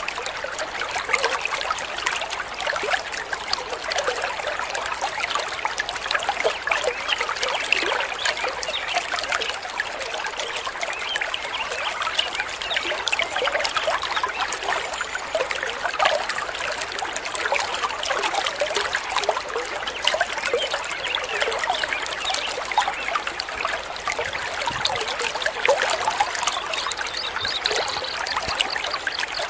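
Flowing water trickling and babbling steadily, a dense continuous splashing with no pauses.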